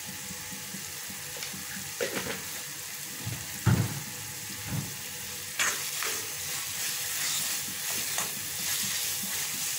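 Onion-tomato masala frying in an iron kadai with a steady low sizzle. A few knocks come about two and four seconds in, the one near four seconds the loudest. From about halfway a steel spoon stirs and scrapes through the thick masala, and the sizzling gets louder and rougher.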